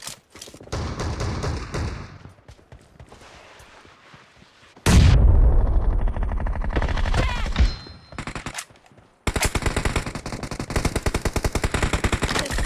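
Video game automatic gunfire: short bursts of rapid shots about a second in, then a louder, heavier stretch of firing with a deep rumble from about five seconds in, and sustained rapid automatic fire from about nine seconds on.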